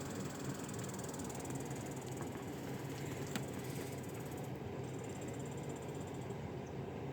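Steady low hum with a hiss over it, and one faint click about three and a half seconds in.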